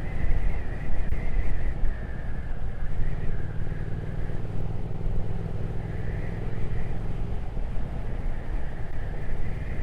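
Triumph Speed Twin 1200 motorcycle's parallel-twin engine running steadily at cruising speed, with wind rushing over the on-bike microphone.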